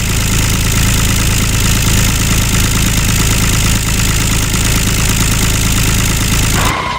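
Mini tractor's motor running steadily, cutting off suddenly just before the end.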